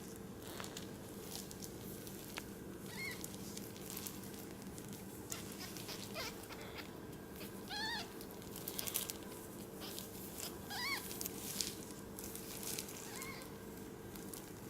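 Four-day-old newborn kittens mewing: about five short, thin, high calls, each rising then falling in pitch, with soft rustling and scratching clicks between them and a steady low hum underneath.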